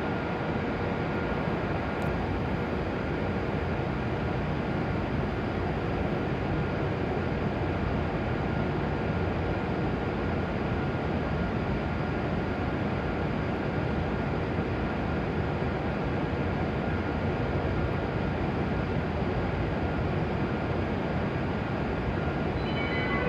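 E7 series Shinkansen train standing at the platform, its onboard equipment giving a steady whirring hum with a few faint steady tones.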